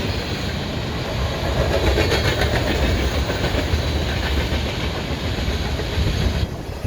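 Freight cars of a CSX manifest train rolling past with a steady rumble, the wheels clicking over rail joints.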